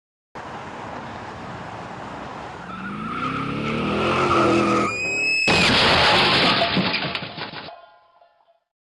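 Car engine revving with rising pitch, then a sharp tyre screech about five seconds in. A loud burst of noise follows and fades away over about two seconds.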